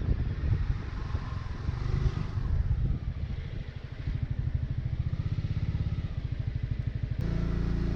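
Honda ADV350 scooter's single-cylinder engine running under way, an even low throb that is briefly quieter about three and a half seconds in.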